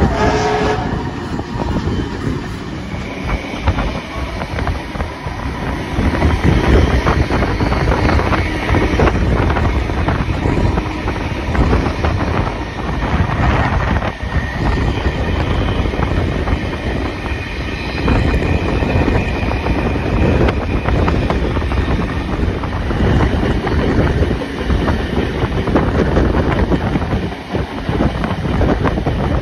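A steam-hauled passenger train running along the line, heard from aboard: a steady rumble of wheels on the rails with the clickety-clack of rail joints. It gets louder about six seconds in.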